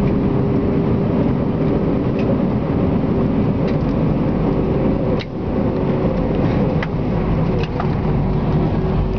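Airbus A320 cabin noise on the ground after landing: a steady engine and airflow rumble with a constant hum, and a few short clicks or knocks, the sharpest about five seconds in.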